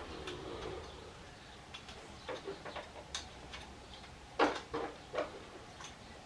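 A few scattered light clicks and knocks of tools and fork parts being handled, the loudest about four and a half seconds in.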